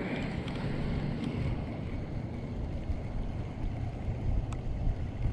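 Strong wind rumbling and buffeting on the microphone in a small fishing boat, with a faint steady low hum under it and a single sharp click about four and a half seconds in.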